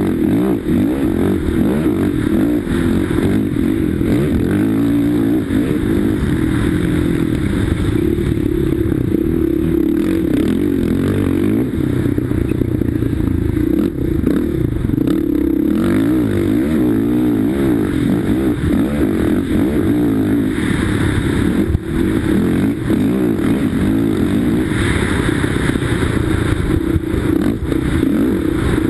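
Sidecarcross outfit's engine at race pace, heard from onboard, its note rising and falling as the throttle opens and closes, with rattling from the machine over the rough dirt track.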